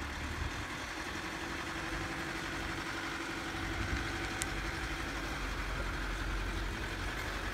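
Mitsubishi 4x4's engine running steadily at low revs as it tows a RIB on its trailer up a slipway out of the water.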